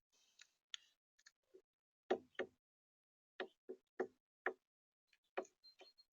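A series of short, sharp knocks and ticks at an irregular pace, faint in the first second and louder from about two seconds in, some coming in quick pairs.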